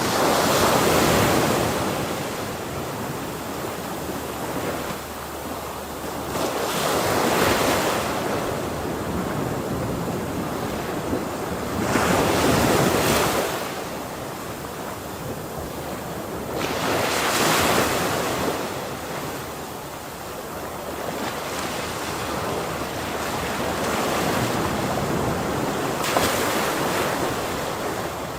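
Ocean waves breaking on a shore, a steady surf wash that swells as each wave crashes, about every five seconds.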